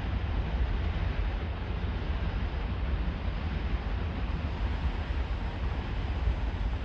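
Steady rolling noise of a freight train of empty coal wagons behind an ET41 electric locomotive departing, mixed with wind buffeting the microphone.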